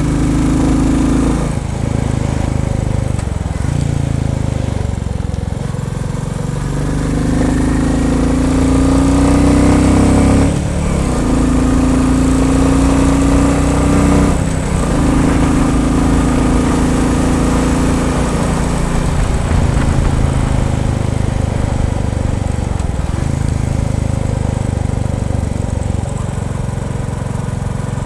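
Royal Enfield Bullet 350's single-cylinder four-stroke engine pulling the motorcycle along: the engine note rises under acceleration, breaks briefly at two gear changes about ten and fifteen seconds in, then settles to a steady cruise.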